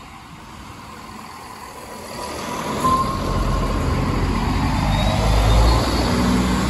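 Diesel train rolling up to and over the level crossing, its engine and wheel rumble growing steadily louder from about two seconds in, with a thin high whine above it.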